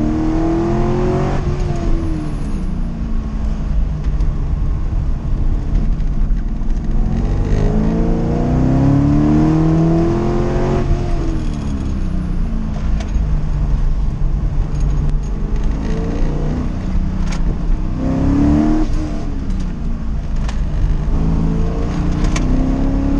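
1979 Corvette's small-block V8 under hard acceleration, heard from inside the cabin. The engine note climbs in pitch and falls back sharply four times as the car is driven hard up the hillclimb course.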